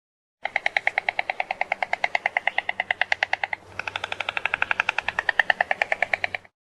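An animal's rapid pulsed trill, about a dozen notes a second, in two long runs with a short break about halfway through.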